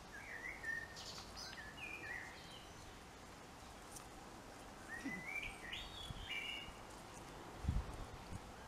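A songbird singing two short phrases of quick stepped notes that jump up and down in pitch, one starting at once and another about five seconds in, over a faint outdoor hush. A couple of brief low thuds near the end.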